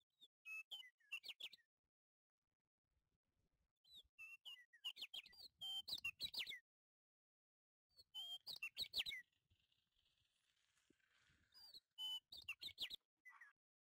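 A small bird chirping in four short bursts of quick, high notes, separated by silence.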